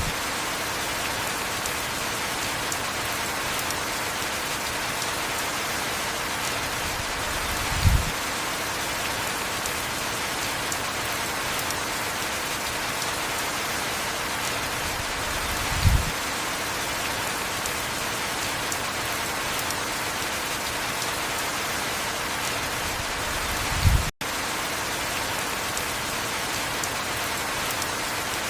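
Heavy rain falling steadily, an even hiss. A short low thud recurs about every eight seconds, and the sound cuts out for an instant just after the last thud.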